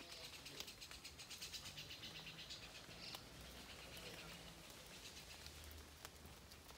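Faint light rain pattering, a soft hiss with fine ticks of drops, near silence.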